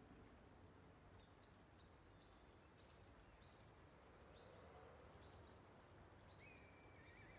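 Faint bird calls: a series of about eight short high notes, roughly two a second, then a longer flat note near the end, over quiet outdoor hiss.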